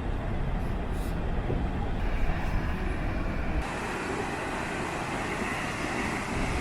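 Steady rushing roar of water pouring from a dam's discharge, with a heavy low rumble that drops away about three and a half seconds in, leaving a brighter hiss of spray.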